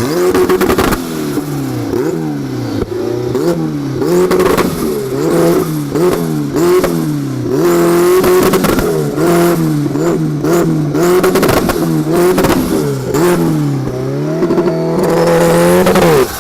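A car engine being revved over and over, its pitch climbing and dropping again and again and held flat at the same top pitch several times, with sharp crackles and pops mixed in.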